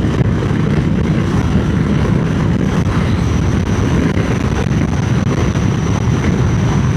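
Triumph Speed Twin 900's parallel-twin engine running steadily at road speed under a constant rush of wind noise.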